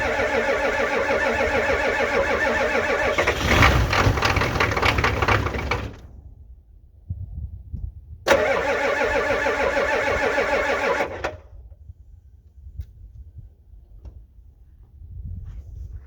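Ford 6.9 L IDI diesel V8 being cranked over by its starter twice without catching: a crank of about six seconds, briefly louder near the fourth second, then a shorter crank of about three seconds, each cut off suddenly. It is a cold start without working glow plugs, with starting fluid in the intake.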